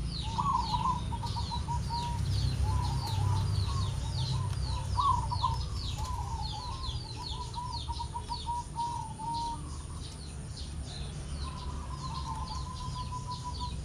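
Zebra dove (perkutut) in full song, giving long runs of its rapid, trilled coo: one long phrase, a pause, then another starting near the end. Small birds chirp quickly and continuously in the background, over a low rumble.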